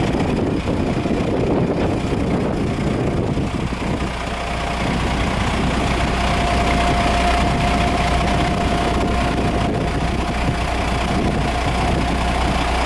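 Caterpillar 972H wheel loader's diesel engine running steadily, with a thin steady whine over the engine rumble that grows stronger about five seconds in.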